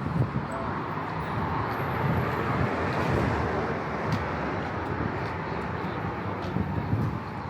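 Steady road traffic noise from cars running along a busy city street.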